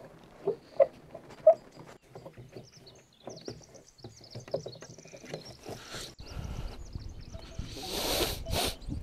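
Animal calls outdoors: three short, sharp calls in the first second and a half, then scattered fainter calls, with a louder rush of noise near the end.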